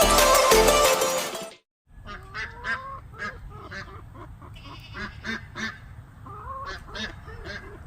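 Background music that cuts off about a second and a half in, then farm poultry calling: short calls repeated several times a second, in three bouts.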